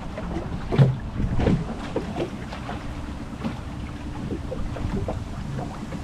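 Small skiff's engine running at idle speed under a steady low rumble of wind on the microphone, with irregular gusts buffeting it, the loudest about a second in.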